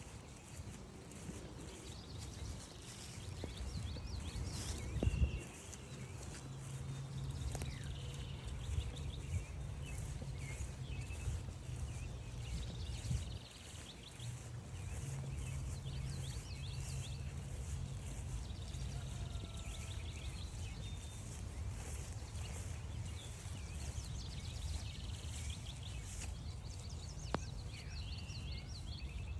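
Songbirds calling and singing, many short chirps and trills, over a steady low rumble, with a brief knock about five seconds in.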